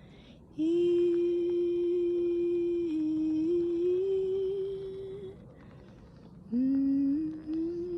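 A woman humming a long wordless held note that steps up in pitch a couple of times, then, after a short pause, starting another rising phrase near the end.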